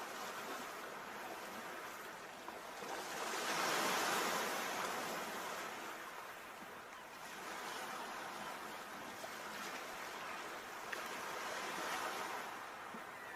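Sea waves breaking and washing in, a steady rushing surf that swells to its loudest a few seconds in and then eases off.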